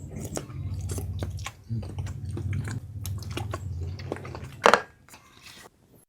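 Close-up chewing and biting of food, with wet mouth clicks and crunches and one louder crunch about three-quarters of the way through, fading out near the end.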